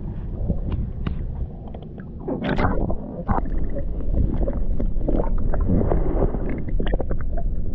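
Water sloshing and slapping around a kayak on the sea, with a low rumbling haze and scattered sharp knocks and clicks; it grows louder about two seconds in.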